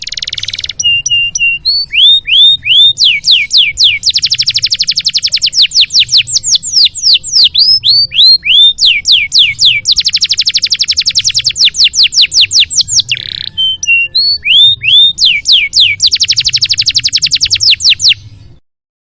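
Domestic canary singing a long, loud song of fast trills alternating with rapid series of down-slurred notes, with a faint low hum underneath; the song cuts off suddenly near the end.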